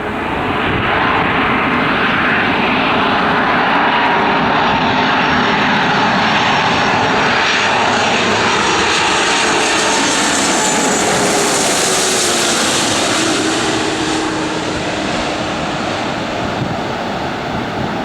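Airliner's engines passing close by: a loud, steady engine noise with whining tones that slide down in pitch as it goes past, the high hiss peaking about twelve seconds in.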